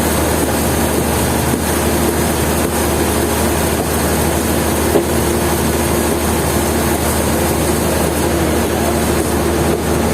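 Sawmill machinery running steadily, a continuous loud mechanical noise with a constant hum and no break.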